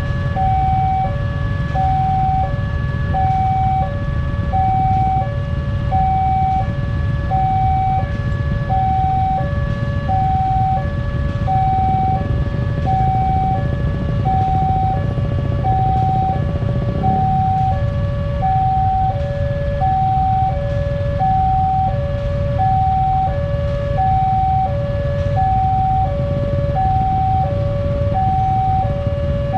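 Railway level-crossing warning alarm sounding continuously: an electronic two-tone signal alternating evenly between a high and a low note, one pair about every second and a half, warning that a train is approaching and the barriers are closing. A steady low rumble runs underneath.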